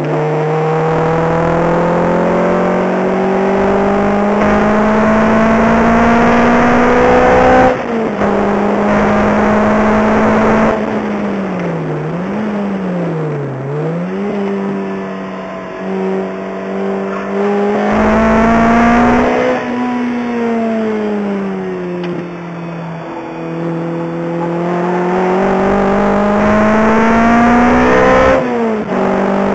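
Lotus Exige's engine heard from inside the cabin, pulling hard on track: the revs climb steadily, drop suddenly at a gear change about a quarter of the way in, dip and recover twice in the middle, fall away, then climb again to another sudden shift near the end.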